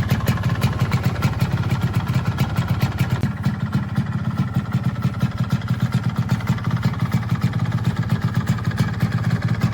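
Yamaha RXZ Catalyzer's single-cylinder two-stroke engine idling steadily, with a rapid, even exhaust pulse.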